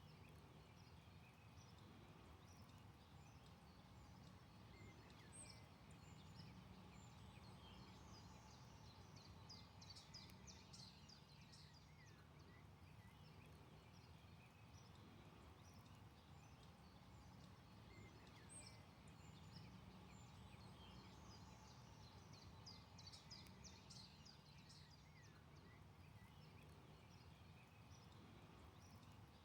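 Faint birdsong: scattered chirps and short trills from several birds, busiest about a third of the way in and again about two-thirds in, over a low steady background noise.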